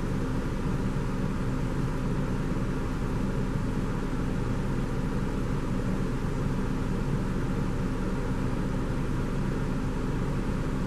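Steady low hum of an idling vehicle engine, with unchanging low tones under an even noise.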